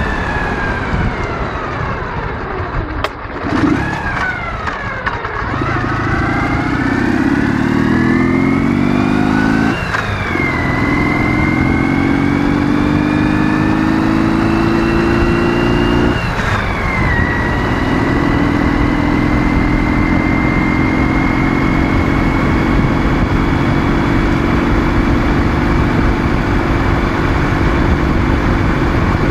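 Ural motorcycle's 650 cc flat-twin engine on the move: it drops in pitch over the first few seconds, then pulls up through the gears, with two gear changes about ten and seventeen seconds in, and settles to a steady cruise with its pitch slowly rising, over a steady rush of noise.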